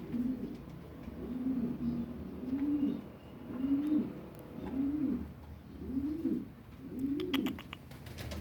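Domestic pigeon cooing: a series of about seven low coos, each rising and falling, roughly one a second. A short run of sharp clicks comes near the end.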